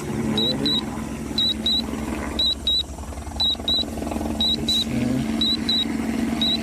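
Drone controller warning beeps: pairs of short high electronic beeps repeating about once a second, over a steady low rumble.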